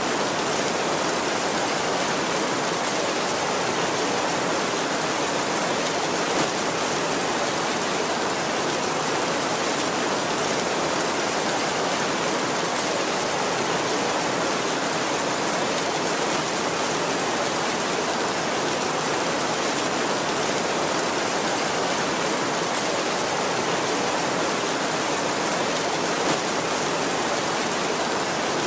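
Heavy rain on a tin roof, falling in a steady, dense hiss with no thunder.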